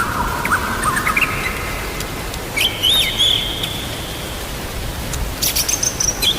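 A songbird singing long whistled notes broken by quick rising and falling flourishes, over a steady hiss of rain.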